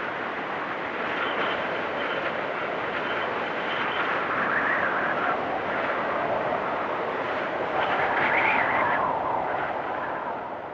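Blizzard wind blowing steadily, with two gusts swelling up about four and eight seconds in, easing off at the end.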